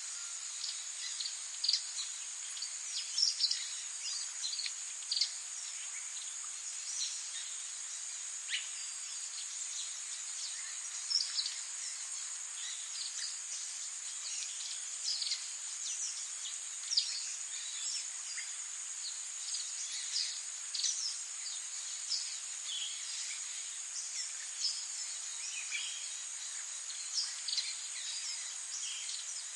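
Wild songbirds chirping and calling in many short, scattered notes over a steady, high-pitched insect trill.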